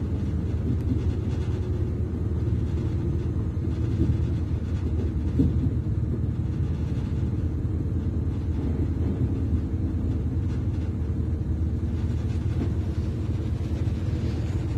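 Interior of a Class 221 Super Voyager diesel-electric train: a steady low rumble of its underfloor diesel engine and wheels on the track as it draws into a station, with a light knock about five seconds in.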